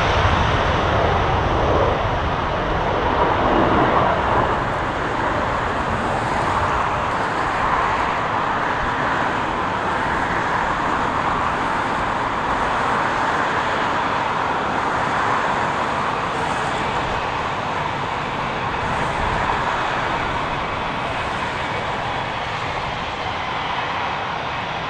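Jet engines of an Etihad Airbus A350-1000 (Rolls-Royce Trent XWB) at takeoff thrust, a steady loud roar. It is loudest in the first few seconds, then holds steady and slowly fades as the jet departs.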